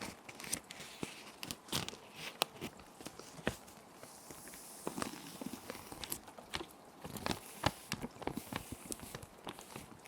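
Clear plastic sheet protectors crinkling and crackling as paper sheets are slid into them and handled: many irregular sharp crackles, with a longer sliding rustle about four seconds in and again near the end. Gentle rain sounds run steadily underneath.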